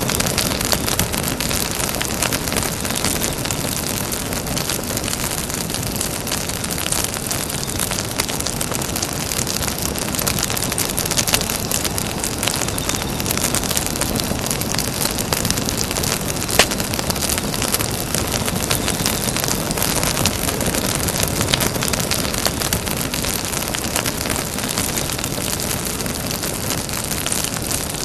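Campfire burning steadily: a continuous rush of flames with constant small crackles, and one sharp pop about halfway through.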